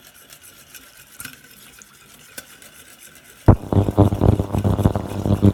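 A whisk beating milk into a butter-and-flour roux in a saucepan: quiet at first with a few light clicks, then a sudden burst of fast, loud whisking strokes from about three and a half seconds in.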